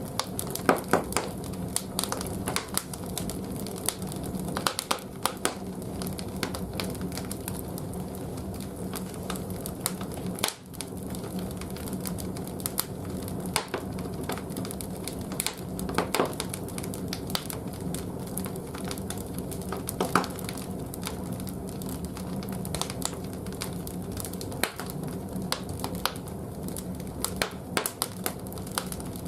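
Firewood burning in a bathhouse's wood-fired boiler firebox, crackling with frequent sharp pops over a steady low hum.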